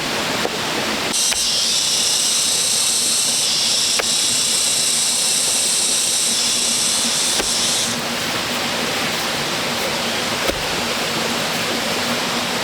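Steady rushing noise like running water, with a loud, even high-pitched buzz that starts about a second in and stops near eight seconds, and a few light clicks.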